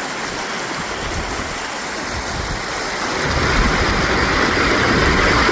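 Waterfall rushing, a steady wash of water noise that grows louder about three seconds in, with a low rumble joining it.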